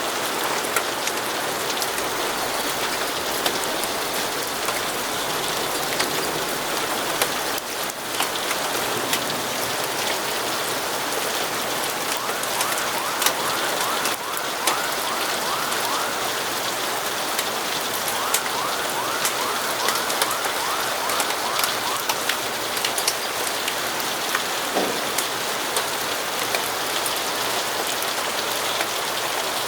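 Steady rain falling, with frequent sharp ticks of drops throughout. Twice in the middle there is a run of rapid, repeated high chirps.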